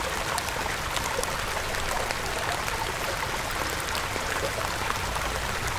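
Steady hiss of rain falling on the forest floor, with faint scattered pattering ticks.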